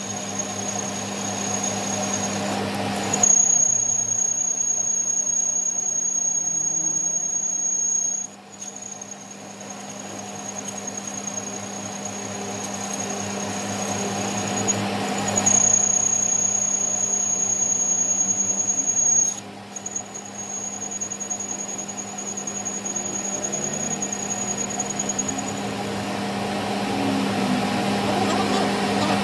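A machine tool cutting a steel shaft: a steady motor hum under a high-pitched squeal of the tool on the metal. The squeal gets much louder for two stretches of about five seconds each, about three seconds in and again past the middle, with short drops between.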